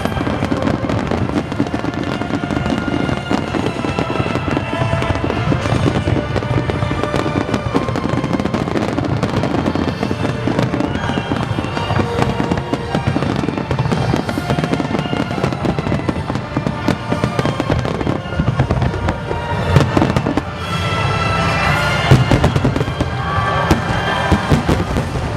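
Aerial fireworks bursting and crackling in quick succession over music played through loudspeakers.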